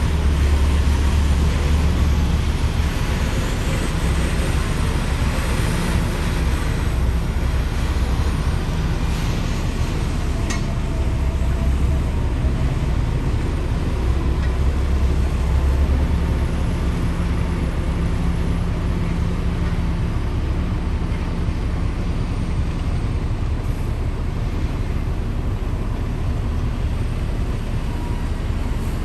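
Heavy diesel machinery, such as a mining dump truck, running with a deep, steady engine rumble that is a little louder in the first half.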